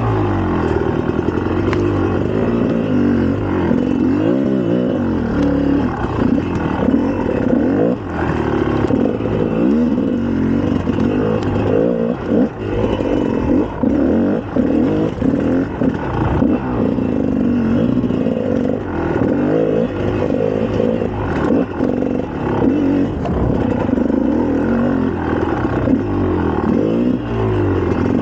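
2004 GasGas EC300's 300 cc two-stroke engine being ridden hard, revving up and down as the throttle is opened and closed again and again.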